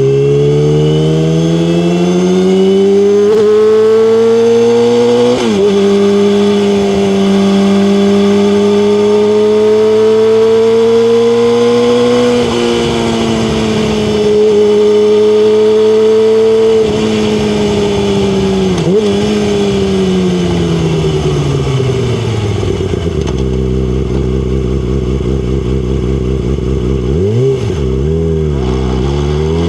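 Yamaha R6's inline-four engine heard from the bike, revving up through the first few seconds and dropping sharply in pitch at an upshift. It then holds fairly steady revs with a couple of brief dips. Later the revs fall away to a low steady run, with a quick blip near the end before it pulls up again.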